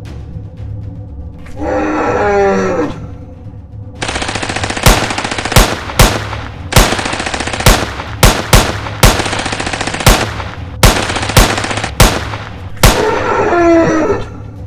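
A monster's roar falling in pitch, then about a dozen rapid gunshots over a dense hiss for some eight seconds, and another roar near the end: a dinosaur being shot at, as film sound effects.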